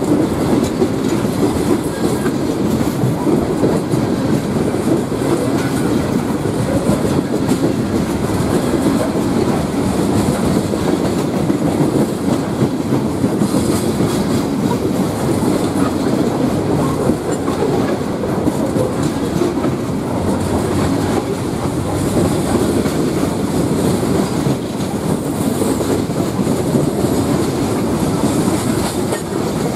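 Loaded coke hopper cars of a freight train rolling past close by: a steady rumble of steel wheels on rail with continuous clickety-clack from the wheels.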